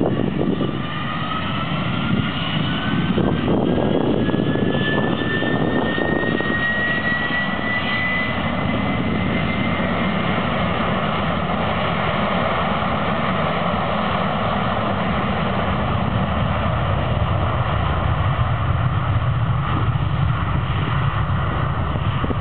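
Airbus A300-600R jet engines spooling up to takeoff power. A whine climbs in pitch over the first ten seconds and then holds steady over a continuous jet roar.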